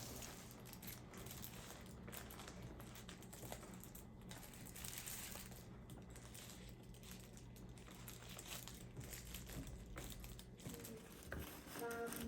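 Faint light clicking and crinkling over a steady low hum, with a few pitched tones coming in near the end.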